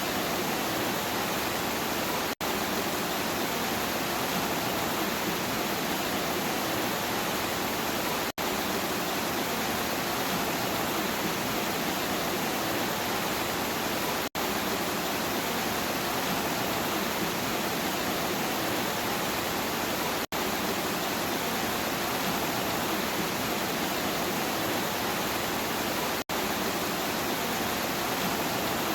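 Heavy rain falling as a steady, dense hiss, cutting out for an instant about every six seconds.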